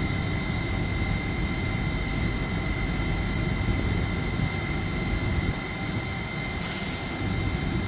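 A train standing still and running steadily at idle: a low rumble under a constant high-pitched whine, with a short hiss near the end.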